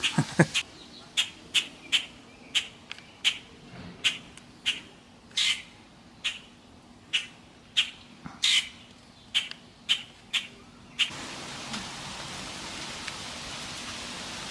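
A bird giving short, sharp calls over and over, about one and a half a second: alarm calls scolding a cat it is harassing. About eleven seconds in the calls stop and a steady hiss takes over.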